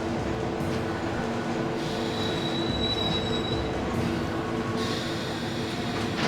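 Subway train running, a steady rumble with a low humming drone. A thin, high wheel squeal comes in about two seconds in and lasts about a second and a half.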